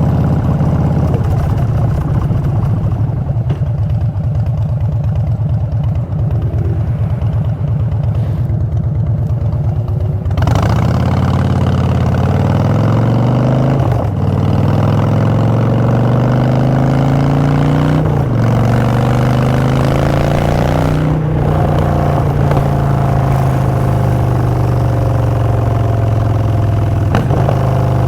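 Harley-Davidson Street Bob's Twin Cam V-twin through Vance & Hines Short Shots exhaust, running steadily at low revs for about ten seconds. It then opens up and accelerates, the pitch climbing and dropping back at each of three upshifts, before settling into a steady cruise.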